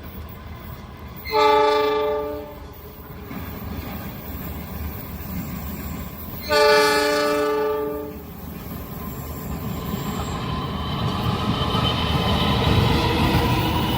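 Train horn sounding two blasts about five seconds apart, each a chord of several steady tones, followed by the rumble of the approaching train growing louder.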